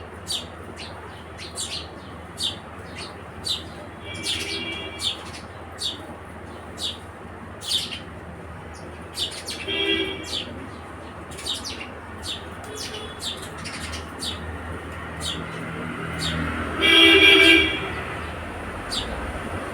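House sparrows chirping, short sharp chirps repeated every half second or so. A vehicle horn honks loudly for about a second near the end, with shorter horn toots about four and ten seconds in, over a steady traffic hum.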